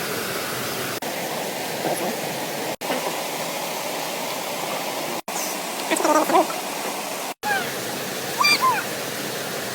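River water rushing steadily. The sound cuts out briefly three times, and a few short chirping calls come about six and eight and a half seconds in.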